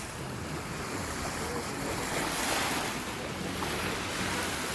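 Lake waves washing onto a beach, with wind buffeting the microphone; the wash swells about halfway through.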